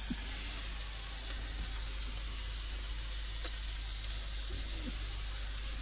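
Food frying in a pan for a curry, a steady sizzle with a few faint clicks.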